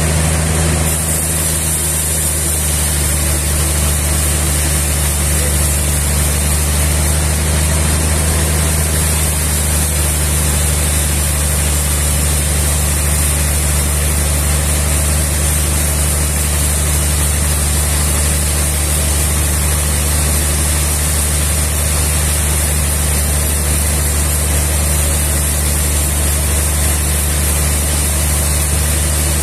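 Sawmill machinery running steadily: a low, even engine hum with a steady high hiss over it.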